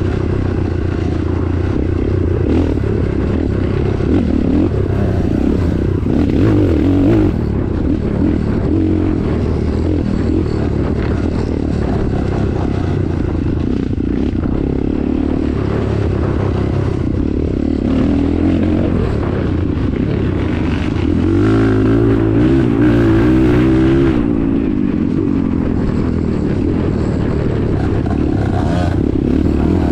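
Vehicle engine running steadily under load with rattling and scraping. The engine note rises and grows louder for a few seconds about two-thirds of the way through.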